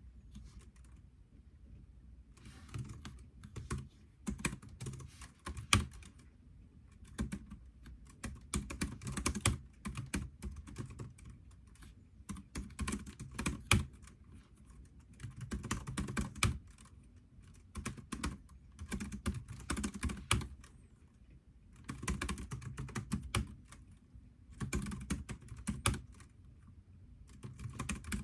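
Typing on a computer keyboard: rapid key clicks in bursts of one to two seconds, broken by short pauses about every three seconds.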